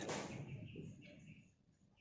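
A pause between flamboyan (wergan Jawa) songbird calls: a few faint chirps in the first second over a low hum, then near silence.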